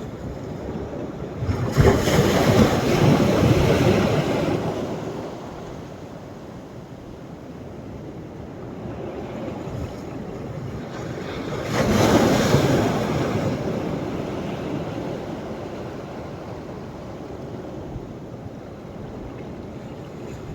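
Sea waves breaking on a beach on a rising tide: two waves crash about ten seconds apart, each surging loudly and then washing away over a few seconds.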